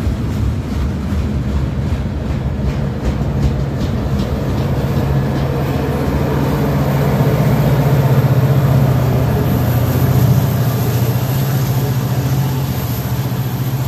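Freight train rolling past close by: a steady rumble of cars on the rails, with wheel clicks over the rail joints in the first few seconds. A deeper engine drone grows louder through the middle as a CSX diesel locomotive comes by.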